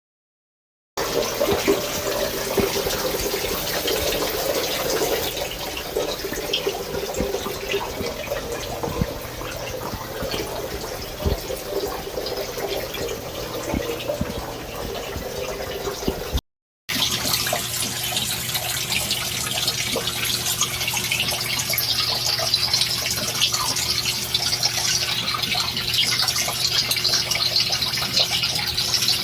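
Shower water running in a steady hiss. It starts about a second in, cuts out briefly past the middle, then resumes with a brighter, hissier sound.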